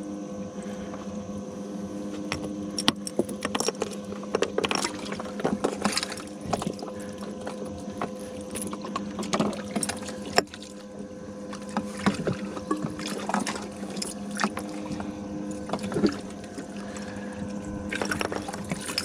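Water splashing and pouring, with irregular knocks and clicks, over a steady electric hum that has a tone cutting in and out every few seconds.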